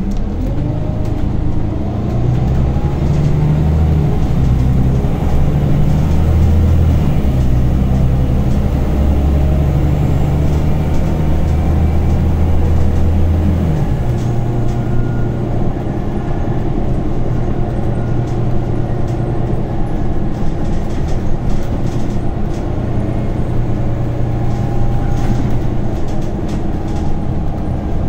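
Scania OmniCity city bus heard from inside the cabin while under way. The engine drones deep and heavy, pulling for about the first half, then eases off suddenly to a lighter, steadier hum, with small scattered rattles throughout.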